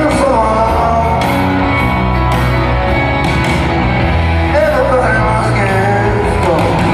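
Live rock band playing the song in concert, with a voice singing over the band.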